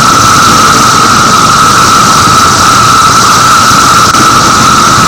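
Cicada buzzing loudly and steadily as a featured solo, one harsh unbroken drone with a strong fixed pitch over a hiss, picked up by the stage microphone.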